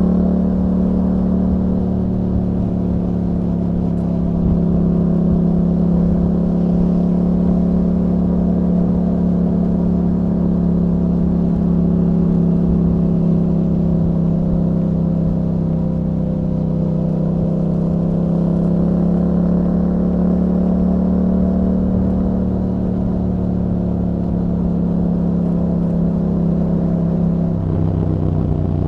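2021 Yamaha MT-07's parallel-twin engine running through an Akrapovic exhaust fitted with a dB killer, held at a steady pitch under way. Near the end the note briefly breaks and changes pitch.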